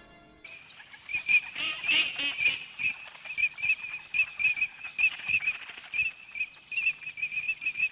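Birds chirping: a steady run of short, high chirps, several a second, starting about half a second in as the music stops.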